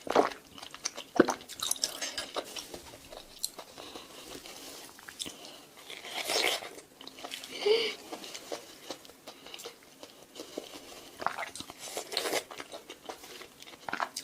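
Close-miked biting and chewing of juicy fruit: many short, sharp crunchy bites and wet chewing sounds.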